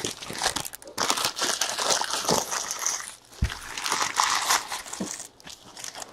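Wrappers and packaging crinkling and rustling as they are handled, with one dull thump about three and a half seconds in.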